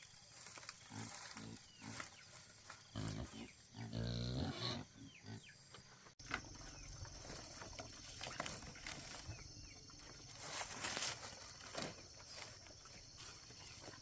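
Pigs grunting and squealing, loudest about three to five seconds in.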